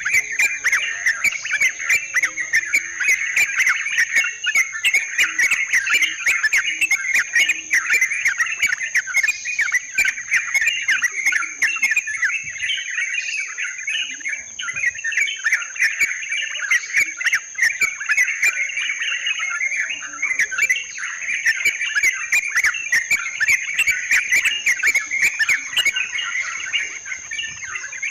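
Yellow-vented bulbuls (trucukan) calling continuously in a dense, overlapping chatter of short bubbling notes, over a steady high-pitched whine.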